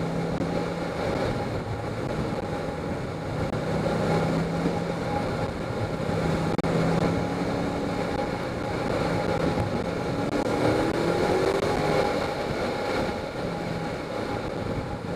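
Ford Mustang 5.0 V8 driven hard through an autocross course, heard from outside the car on the hood, with a steady rush of air noise over the engine. The engine note climbs twice, about ten seconds in and again near the end, as the car accelerates.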